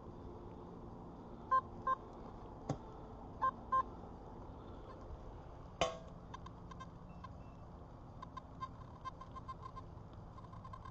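Metal detector giving short beeps in two quick pairs as it is swept over a buried target, with a sharp click and, about six seconds in, a louder knock. Near the end comes a run of faint quick ticks at the same pitch as the beeps.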